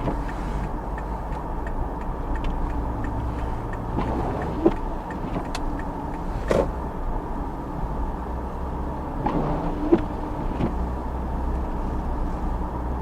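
Steady low rumble of a car heard from inside its cabin, with a few short clicks or knocks scattered through it.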